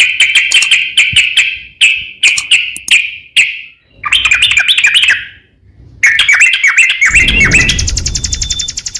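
A crokcokan songbird singing loudly in runs of rapid, warbling chirps, broken by short pauses. Near the end a low rumble comes in, and a fast, even pulsing begins.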